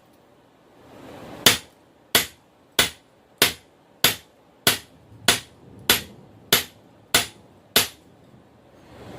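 Hand hammer striking hot steel on an anvil: eleven evenly spaced blows, about one and a half a second, starting about a second and a half in, each with a short metallic ring. The blows are spreading the split end of a forge-heated railroad rail cut.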